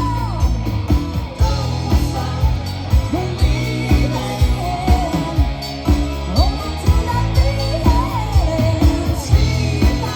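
Live cover-rock band playing, with a singer's voice over guitars, bass and a steady drum beat, heard through a PA.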